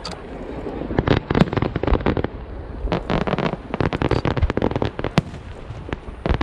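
Aerial fireworks going off in rapid volleys of sharp bangs and crackles, with short lulls between the bursts.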